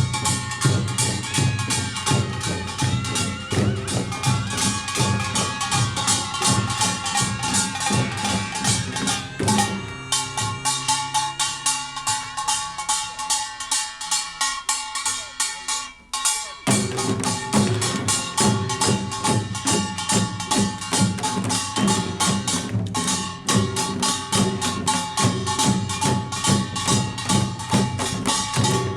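Korean pungmul percussion band playing a fast Jeolla Jwado gut rhythm: kkwaenggwari small gongs clanging over janggu and buk drums and the jing gong. About ten seconds in the drums drop out, leaving the gongs ringing and lighter strokes, and the full band comes back in around sixteen seconds.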